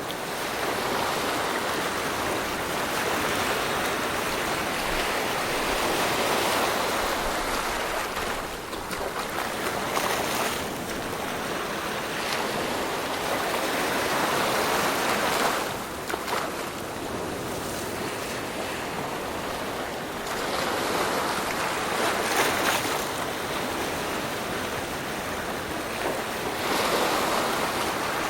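Rushing water noise that swells and eases every few seconds, like surf washing in.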